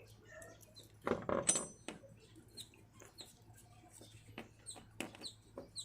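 Small metal starter-motor parts (washer, pin, gear) clinking and clicking as they are handled and fitted, with one louder clink about a second in that rings briefly, then scattered light ticks.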